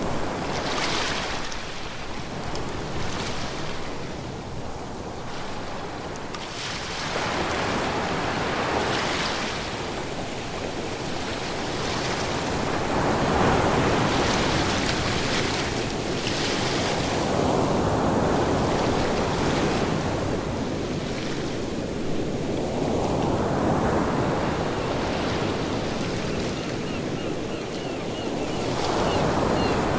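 Ocean waves breaking and washing up on the shore, the surf swelling and receding every few seconds.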